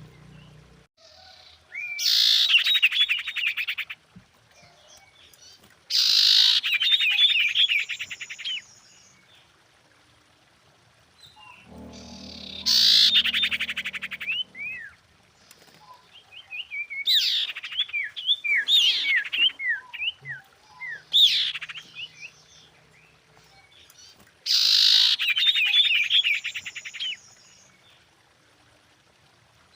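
Common iora (sirtu) calling in about five bouts separated by pauses of a few seconds. Each bout is a rapid buzzing rattle mixed with short whistled notes sliding up and down; the middle bout is a looser string of separate whistles. It is the female's call to a male.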